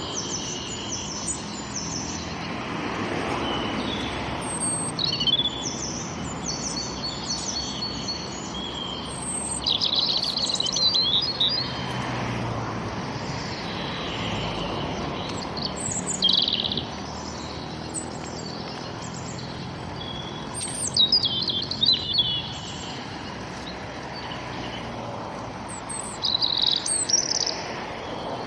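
Several songbirds singing and chirping in short, quick phrases, with louder bursts every few seconds, over a steady low background hum.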